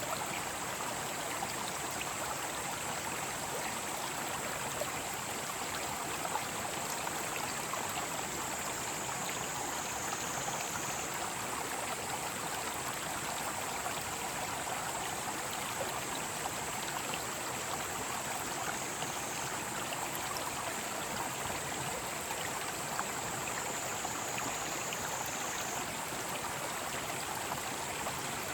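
Mountain stream rushing steadily over rocks, with a steady high chorus of cicadas above it that shifts slightly in pitch now and then.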